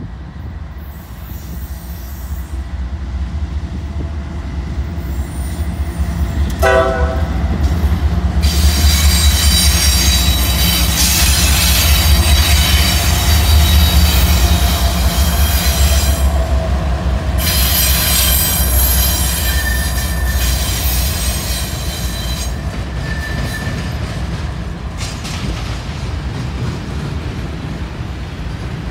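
Freight train passing close behind two CSX diesel locomotives, with a deep engine rumble that swells as they go by. A short horn blast sounds about seven seconds in. After that, high steel wheel squeal runs for long stretches while the loaded hopper cars roll past.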